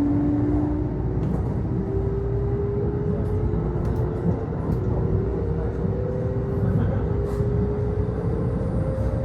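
Kintetsu Osaka Line local electric train heard from inside the car as it pulls away from a station. Its traction motors whine in several tones that rise slowly in pitch as it gathers speed, over a steady low rumble of the wheels on the rails.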